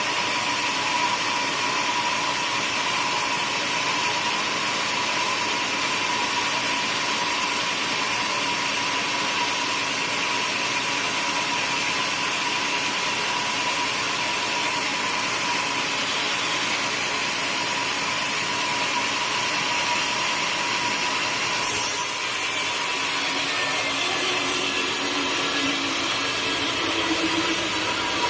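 A sawmill saw running and cutting teak wood, a steady loud mechanical noise with a constant whine. About 22 seconds in there is a sharp click, after which the high hiss of the cut drops away.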